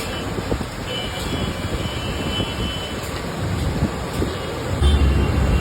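Street traffic noise with engines running, and a heavy vehicle's low engine rumble growing strong near the end.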